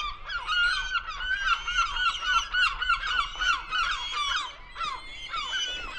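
A flock of birds calling all at once: many short, falling, wavering calls overlapping thickly, several a second, without a break.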